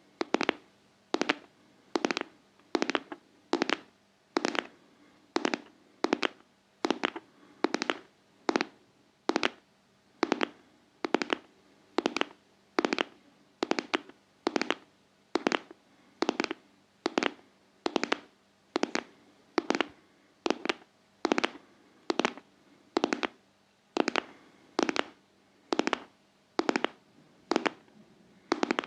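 Close-miked ASMR tapping: sharp taps that come in pairs, a pair about every second, in a steady heartbeat-like rhythm.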